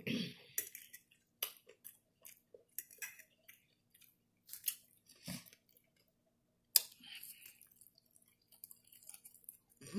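Close-up chewing and crunching of nacho tortilla chips: irregular crisp crunches with quiet gaps between, and one sharp click about seven seconds in.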